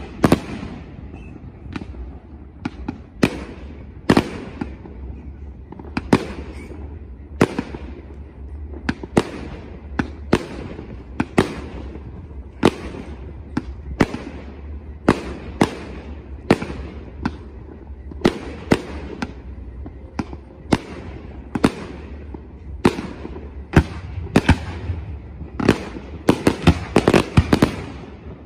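Fireworks display: aerial shells bursting one after another, about one sharp bang a second, each trailing off in a short echo. Near the end the bangs come thick and fast in a rapid flurry.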